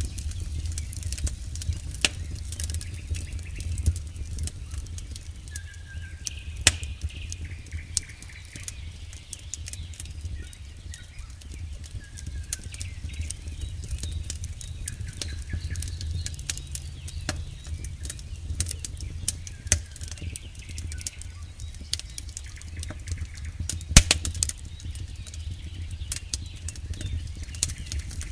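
Campfire burning: irregular sharp crackles and pops from the burning wood over a steady low rumble of the flames, with one loudest pop near the end.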